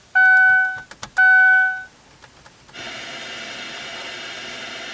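Two long electronic beeps about a second apart, then from about three seconds in a steady hiss of static from a newly installed aftermarket car radio's speakers.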